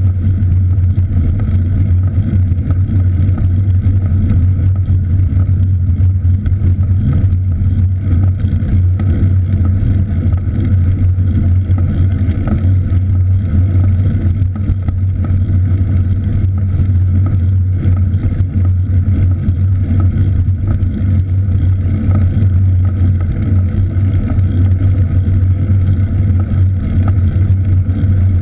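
Steady low rumble of riding a cross bike: wind and road noise on the microphone, unbroken throughout.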